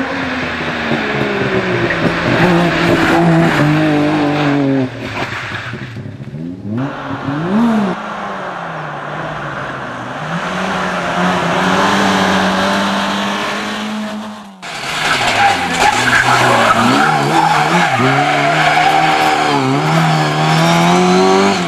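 Rally car engines at full throttle, revving up and dropping back through gear changes, with tyres skidding and squealing. The sound cuts abruptly from one car to another several times.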